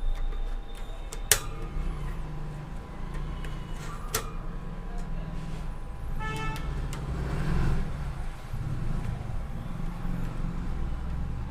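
Steady low rumble of road traffic with a short vehicle horn toot a little past the middle, and two sharp clicks, one early and one about four seconds in.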